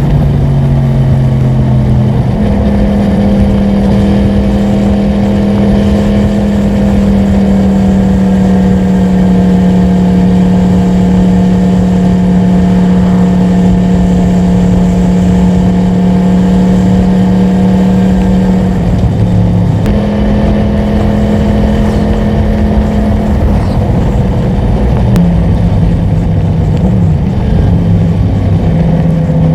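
Yamaha MT-10's crossplane inline-four engine under way at fairly steady revs, over wind rush. Its pitch steps up shortly after the start, dips briefly about two-thirds through, then rises and falls a few times near the end.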